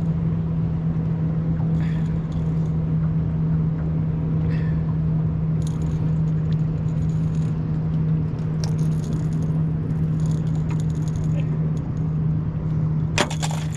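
A boat motor running with a steady low hum. Light metallic rattles and clicks come and go over it, with one sharp click near the end.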